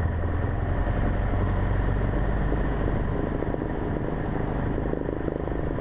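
Cessna 150's four-cylinder Continental O-200 engine and propeller running steadily at low power, heard from inside the cockpit, as the plane rolls off the runway after landing.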